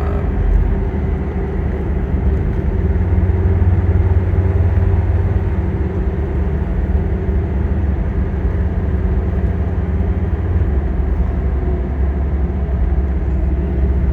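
Mercedes turbo diesel in a 1994 Toyota 4Runner running steadily in fifth gear under light load, heard from inside the closed cab as a low, even drone with tire noise from the road.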